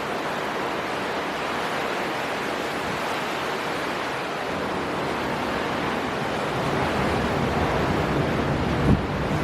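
Storm wind and surf from the sea: a steady, even rush of noise that swells slightly in the second half, with a brief low buffet near the end.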